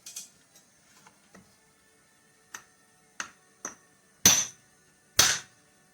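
A chainsaw part being tapped loose on a Homelite 10-10 chainsaw: a few light ticks, then five sharp metallic taps with a short ring. The last two taps are the loudest.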